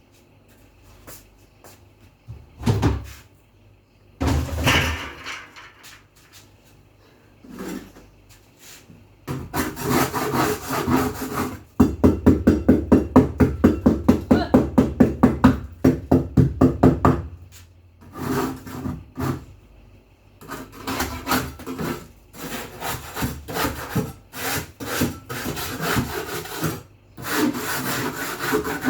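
Scrubbing strokes, fast and even at about four a second for some five seconds in the middle, between shorter spells of rubbing and a few knocks.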